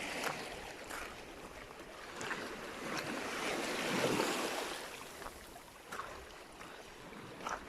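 Sea waves washing in on the shore, one wash swelling up and falling away around the middle, with a few faint clicks.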